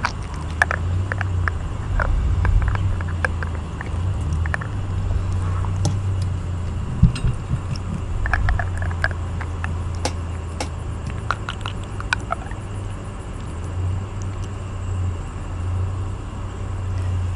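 Steady low hum of an outdoor air conditioning unit running, with scattered light clicks and taps over it.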